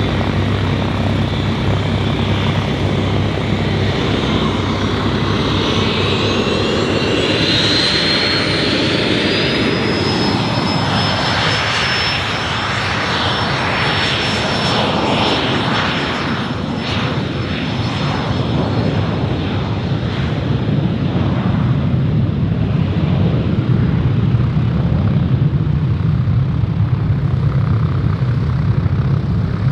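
Cessna Citation CJ1 business jet's twin turbofan engines running. A high whine climbs in pitch from about five seconds in and levels off a few seconds later into a steady high whine, as the engines spool up, over a continuous jet rush.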